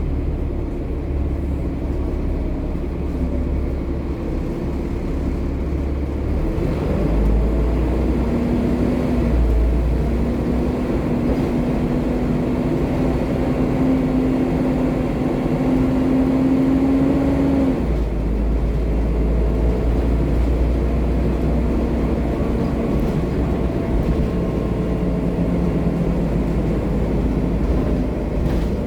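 Volvo B7TL double-decker bus's six-cylinder diesel engine and driveline running under way, a low rumble with a whine that climbs slowly in pitch as the bus accelerates, then drops off about 18 seconds in as it changes gear.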